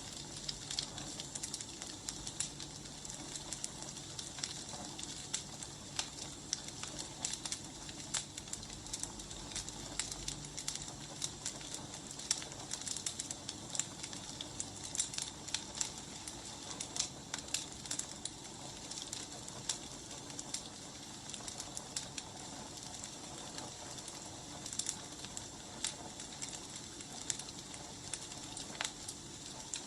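Firewood burning, crackling with frequent irregular snaps and pops over a steady hiss.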